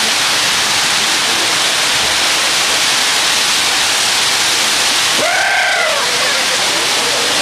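Heavy rain pouring down in a loud, steady hiss. About five seconds in, a brief rising-then-falling call, like a voice, cuts through it.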